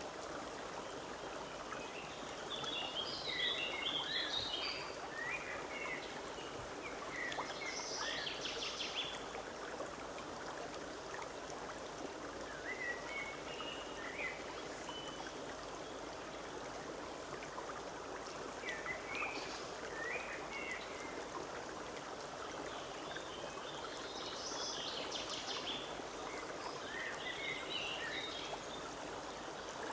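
Forest stream running steadily, with songbirds singing short chirping phrases and quick trills over it every few seconds.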